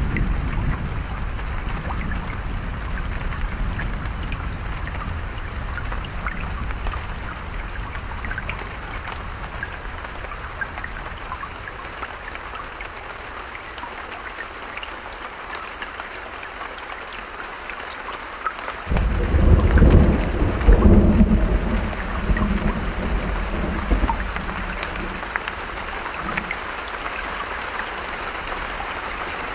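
Steady rain falling, with a low roll of thunder fading early on and a loud clap of thunder breaking about two-thirds of the way through, then rumbling away over several seconds.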